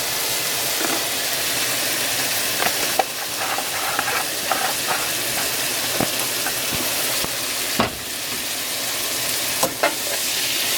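Vegetables frying in oil in a pan, a steady sizzle, with a few clicks and scrapes of a utensil against the pan as they are stirred.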